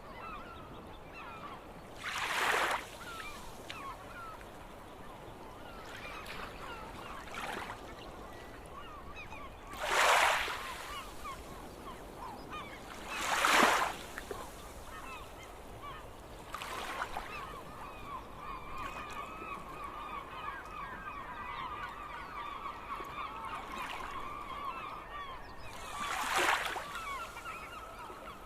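Gulls calling: many short repeated call notes, with a fast unbroken run of calls in the second half. Four brief, loud rushes of noise cut across the calls.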